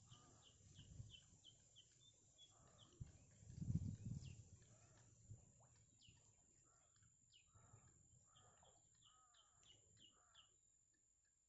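Faint series of short bird chirps repeating several times a second, with a few low thumps about three to four seconds in and a steady thin high whine underneath.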